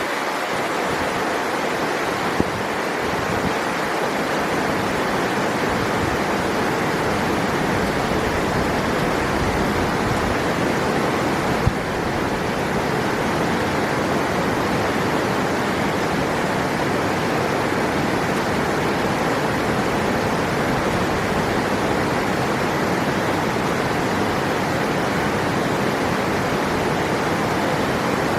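River water rushing steadily, an even unbroken wash of sound.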